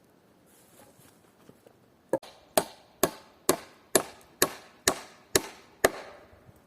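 Nine sharp blows of a tool striking wood, about two a second, starting about two seconds in, each with a short ring after it.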